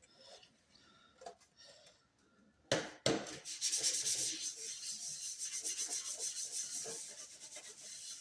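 Two sharp knocks about three seconds in, then quick, even back-and-forth rubbing strokes, like scrubbing or sanding a hard surface.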